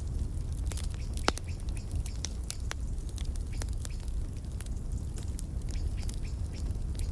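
Wood fire crackling in a fireplace: irregular sharp pops and snaps, a loud one about a second in, over a low steady rumble of the flames.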